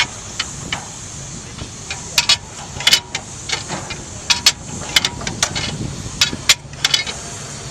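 1928 Rumely OilPull Model X tractor's two-cylinder kerosene engine firing unevenly, with sharp exhaust cracks at irregular spacing over a steady hiss.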